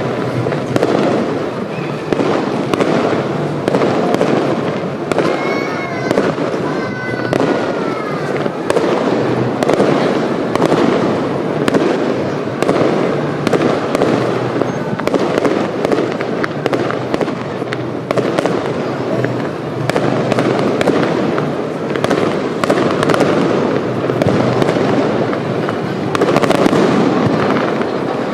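Fireworks display: a dense, unbroken barrage of shells bursting and crackling, many reports overlapping with no pause.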